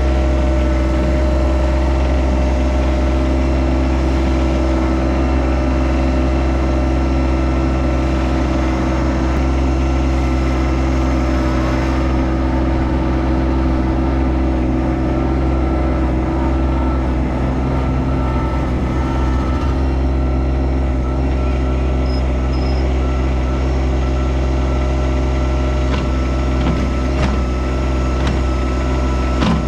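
Yanmar SA324 compact tractor's diesel engine running at a steady, unchanging speed.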